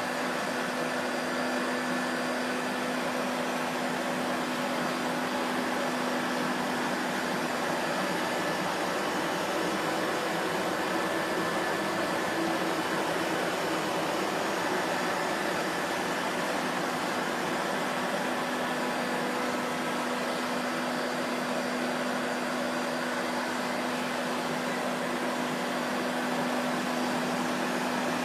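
Vacuum cleaner motor running steadily, a constant rushing of air with a steady motor hum underneath.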